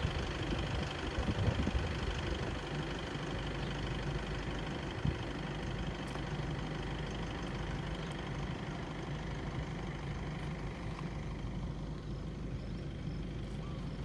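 A vehicle's engine running steadily with road noise, at an even speed.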